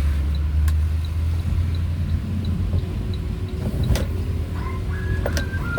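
Motor vehicle on the move, heard as a steady low engine drone with road noise, a few sharp clicks and a faint quick ticking.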